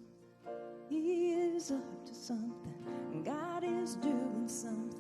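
Worship band music: a slow song with a singer's held, wavering notes over sustained keyboard and guitar chords.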